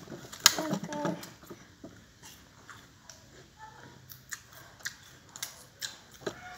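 Someone chewing wax apple (tambis): scattered small clicks and crunches, with a sharp click about half a second in.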